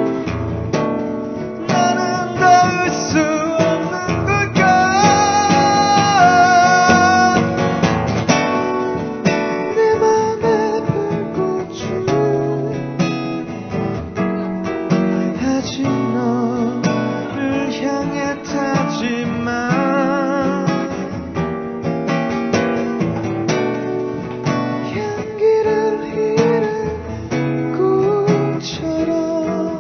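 Acoustic guitars playing an instrumental passage of a pop song cover: strummed chords with a melody line over them.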